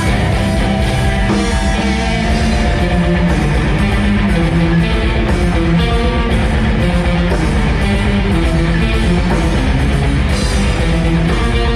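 Live rock band playing loudly, with distorted electric guitars, bass guitar and a pounding drum kit.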